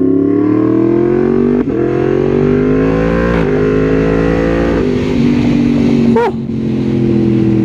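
Yamaha MT-10 SP's crossplane inline-four, through an aftermarket Austin Racing exhaust, accelerating hard. The engine note climbs and drops back three times in quick clean quick-shifter upshifts, then runs steadier near the end.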